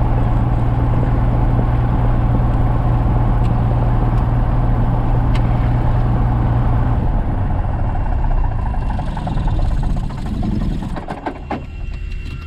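Cessna 172's piston engine and propeller running with a steady low drone; about seven seconds in the sound drops and fades away, with a few clicks near the end.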